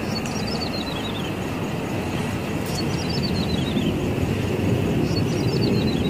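Song of a ciblek sawah, a small prinia: quick runs of high clicking notes that fall step by step, three times, over a steady low rumble.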